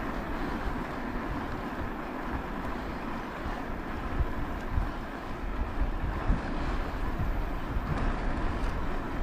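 Wind buffeting the camera microphone over a steady rumble while riding an e-bike.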